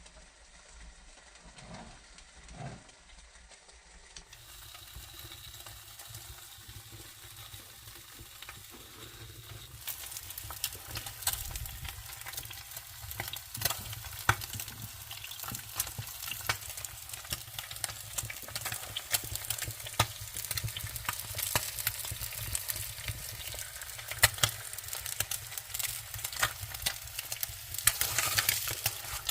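Wood fire crackling and popping in a fireplace. The crackles grow louder and denser about a third of the way in.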